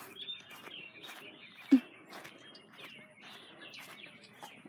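Birds chirping faintly over the light patter of rain, with one sharp knock a little under two seconds in.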